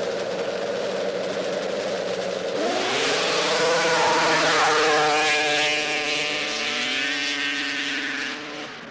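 Racing snowmobiles' two-stroke engines on a grass drag run. A steady drone gives way, about two and a half seconds in, to engines revving hard and climbing in pitch. It is loudest around the middle and the pitches keep rising until the sound falls away near the end.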